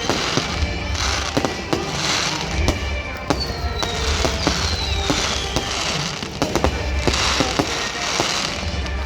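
Fireworks display: a rapid string of bangs and cracks, with crackling, hissing bursts and two falling whistles near the middle.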